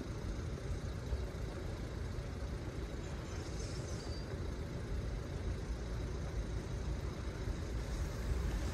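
Low, steady rumble of an approaching LNER Azuma high-speed train, growing gradually louder toward the end as it nears the crossing.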